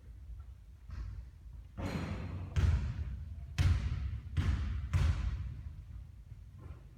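A basketball bouncing on a court four times, the bounces coming closer together as it settles after a shot, with a short swishing noise just before the first bounce.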